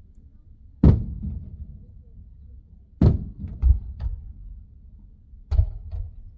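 Fireworks shells bursting, heard from inside a car: a boom about a second in, a cluster of booms and sharper cracks around three to four seconds, and two more near the end, each with a rumbling tail.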